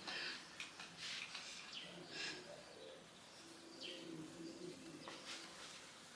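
A bird calling faintly, a few low held notes near the middle, with soft rustling.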